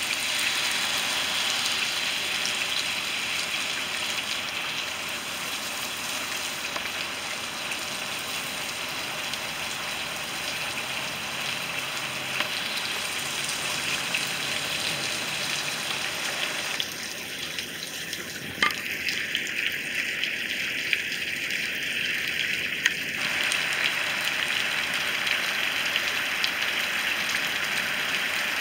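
Heavy rain pouring steadily, a dense even hiss, with occasional sharp ticks of drops striking nearby hard surfaces.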